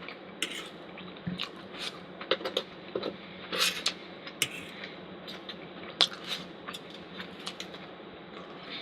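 Eating utensils lightly clicking and scraping against camp cookware at a meal, a dozen or so short separate knocks and scrapes over a steady low hiss.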